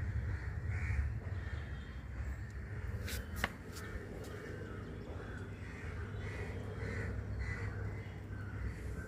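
Birds calling in a long series of short, repeated notes, about two a second, over a steady low rumble. There are two sharp clicks about three seconds in.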